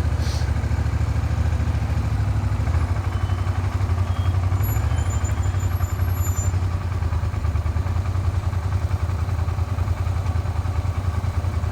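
Suzuki SV400 V-twin motorcycle engine running steadily under way, with a knock from the bottom end that the rider puts down to a makeshift crankshaft repair; it now knocks even below 3000 rpm.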